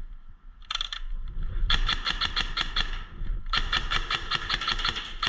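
Airsoft gun firing in rapid bursts of sharp, evenly spaced shots, about seven a second. There is a short burst about a second in, then two longer strings with a brief gap between them.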